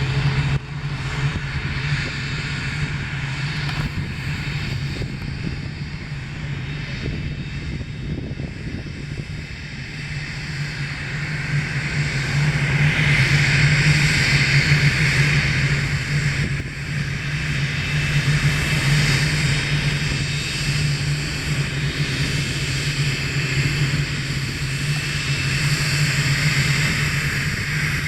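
Cessna Citation XL business jet's twin turbofan engines running with a steady low hum. The sound grows louder from about ten seconds in, is loudest around halfway through, then eases a little.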